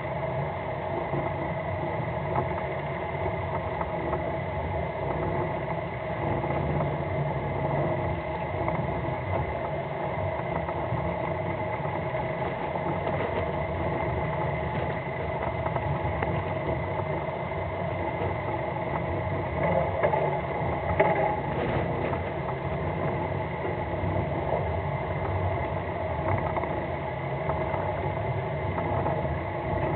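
Fishing boat's engine running steadily, a low hum with a few steady tones over a rushing noise; a few brief louder bumps come about twenty seconds in.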